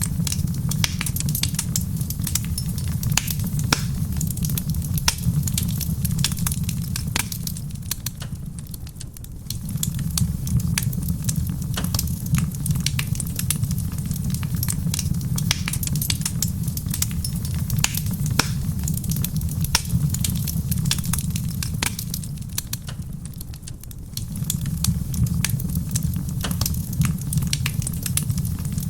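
Wood fire crackling in a stone fireplace, with dense sharp pops and snaps over a low steady rumble that fades briefly twice, mixed with soft rain on a roof.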